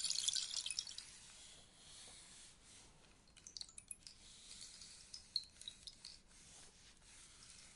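Rainstick's pellets trickling down inside the tube, a dense patter that dies away within about a second into a few scattered clicks and ticks.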